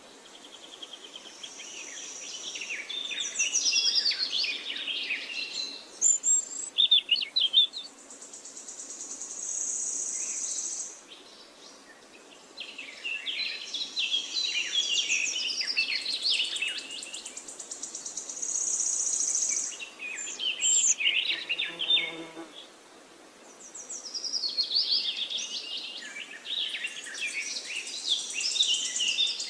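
Birds singing: bursts of chirps and warbling trills, with a high buzzing trill that comes and goes every few seconds.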